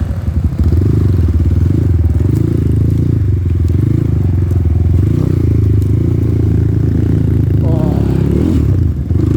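Dirt bike engine running steadily at a roughly constant speed, heard close up from the rider's own bike.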